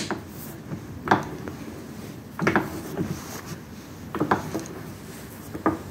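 Parts of a vintage Arrel Camelback drill press being handled after reassembly: about six separate metal clunks and knocks, a second or so apart, each with a short ring.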